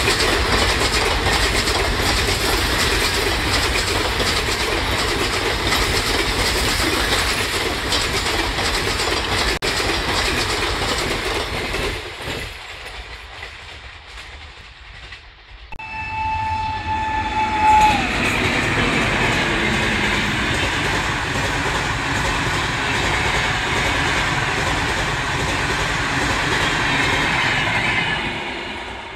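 Express passenger trains hauled by WAP5 electric locomotives rushing past at speed, the coach wheels clattering over the rail joints; the first train fades away as it recedes. A locomotive horn then sounds once for about two seconds and another train rushes past.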